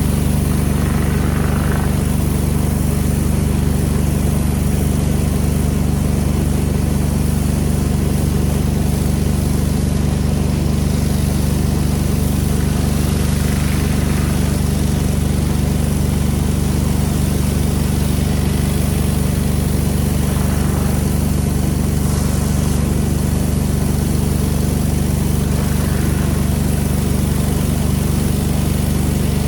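Pressure washer's engine running steadily at a constant speed, with a steady high hiss over its drone.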